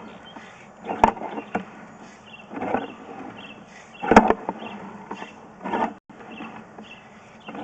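Sewer inspection camera push cable being fed down a 2-inch drain in strokes, a short scraping rattle about every one and a half seconds.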